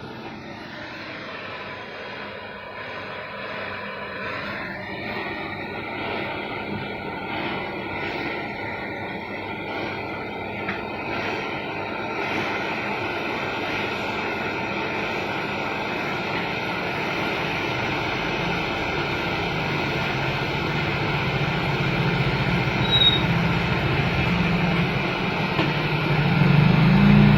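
Gas brazing torch flame hissing steadily as the filter drier on a beverage display fridge's refrigerant line is brazed. It grows gradually louder, with a heavier low rumble near the end.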